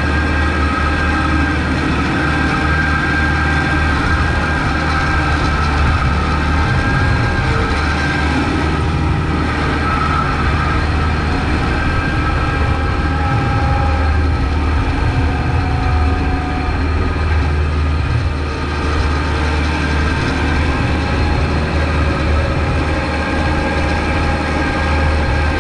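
Kubota MX5200 tractor's diesel engine running steadily under load while plowing snow, a low drone with a thin high whine above it.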